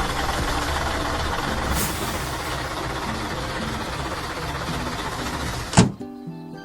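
Heavy truck engine running, with a short air hiss about two seconds in, over background music. The engine sound cuts off with a sharp knock near the end, leaving only the music.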